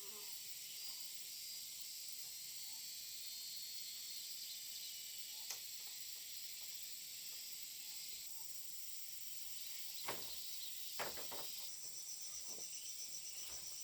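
Steady high-pitched chorus of insects, with a fast, evenly pulsing insect call joining about twelve seconds in. A few sharp knocks land around ten and eleven seconds in.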